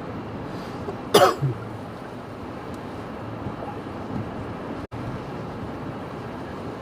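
A person coughs once about a second in, over a steady rushing noise of storm wind and heavy rain.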